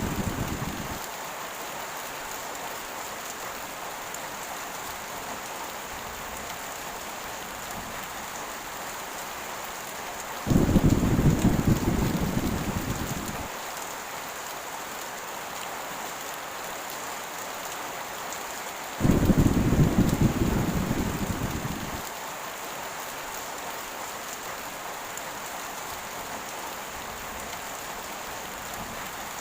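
Heavy rain falling steadily, with two claps of thunder, about a third and two-thirds of the way in. Each starts sharply and dies away over about three seconds, and the tail of an earlier clap fades out in the first second.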